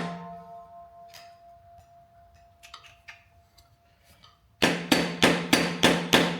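A hammer tapping a screwdriver to drive it under a wheel hub's dust cap. Faint clicks and scrapes for about four seconds, then a steady run of sharp metal blows, about three a second, each ringing briefly.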